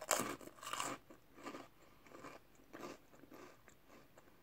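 A person biting into and chewing a cream-filled pastry, close to the microphone. The bite in the first second is the loudest sound, followed by chewing noises every half second or so that grow fainter.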